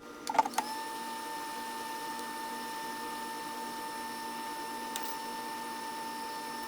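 A click and a brief rattle, then a small motor settles into a steady high whine with overtones. A faint click comes about five seconds in.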